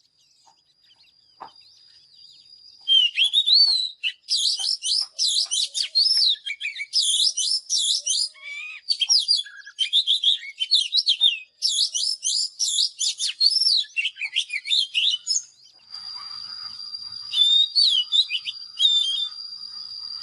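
Oriental magpie-robin singing: after a near-quiet start, a fast, continuous run of varied whistled and sliding phrases begins about three seconds in. A steady high thin tone runs under the last few seconds, with a few more song phrases over it.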